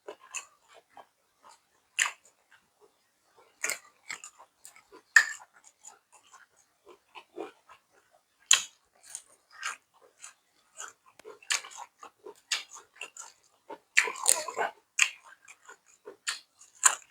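A person eating close to the microphone: irregular wet chewing and mouth clicks with crisp crunchy bites, densest about three-quarters of the way through.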